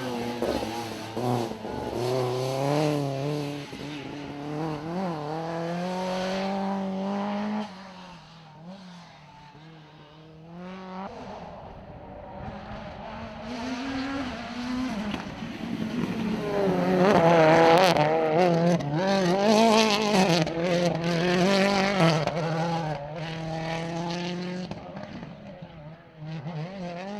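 Rally car engines revving hard and shifting through the gears as the cars run the stage. One car's note drops away about seven seconds in; a second car builds up and passes loudest a little past the middle.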